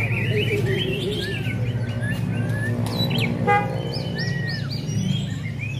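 Several caged songbirds singing over one another in chirps and whistled phrases, over a steady low hum. A brief horn-like toot sounds a little past the middle.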